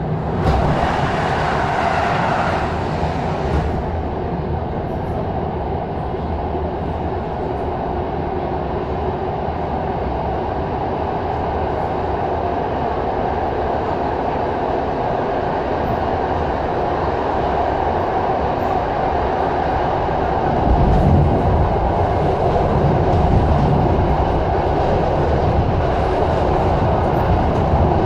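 Passenger train running along the line, heard from on board: a steady rumble of wheels on rail with rushing air. There is a louder hiss for the first few seconds, and a deeper rumble swells about two-thirds of the way through.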